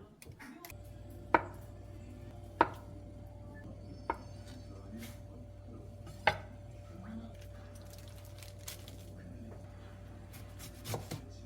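Kitchen knife chopping on a cutting board: a few single, slow chops a second or more apart, the first two loudest. A steady low hum runs underneath from about a second in.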